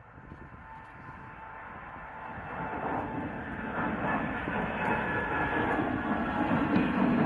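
Jet airliner engines at takeoff power, a rumble with a faint whine that grows steadily louder.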